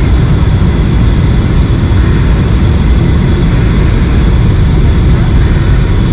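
Boeing 737-800 cabin noise in flight: the CFM56 engines and the airflow over the fuselage make a loud, steady, low noise, with a faint steady high tone above it.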